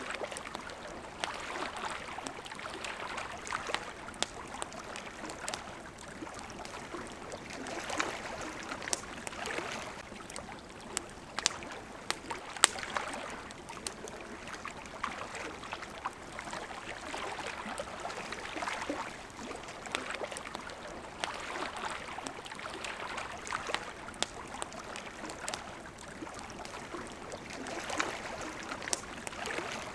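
Small waves lapping at a shore in gentle swells every few seconds, with the sharp pops and crackles of a wood campfire scattered throughout; one pop about halfway through is the loudest sound.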